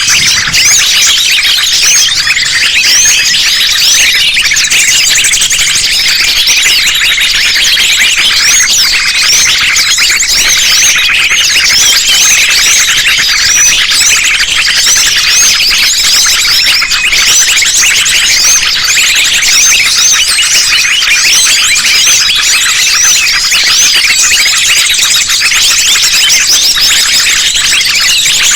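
Dense, loud chorus of many small birds, sunbirds among them, chirping and trilling over one another without a break, all high-pitched. It is a mixed lure recording meant to draw small wild birds in.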